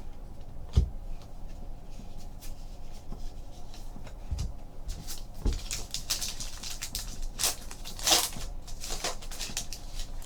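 Baseball trading cards being handled and flipped through on a table: scattered light clicks, taps and paper rustles, with a louder rustle about eight seconds in.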